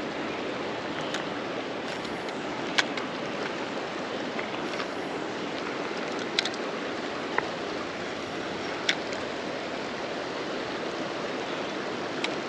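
Flowing creek water, a steady even rush, with a handful of short sharp clicks scattered through it.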